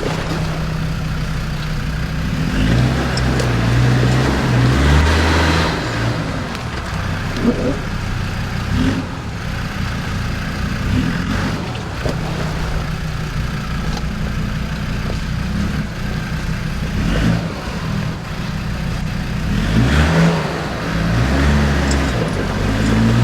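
Off-road 4x4 truck's engine revving hard in surges as it tries to climb a muddy hill, with a big burst of revs a few seconds in and another near the end. The truck does not make it up: a refusal.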